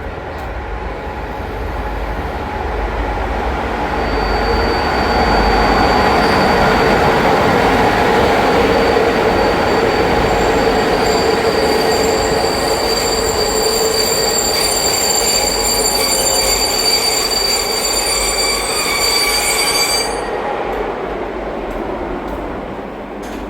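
A train rolling along the track through the station, its wheel-and-rail noise building up and then easing off. Steady high-pitched wheel squeal rings over the rolling noise and cuts off sharply about 20 seconds in.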